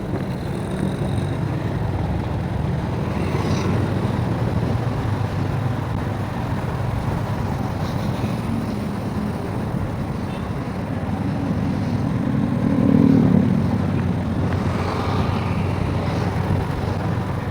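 Steady low drone of a vehicle ride along a street, mixed with road and wind noise. About three-quarters of the way through it swells louder briefly, with a falling tone.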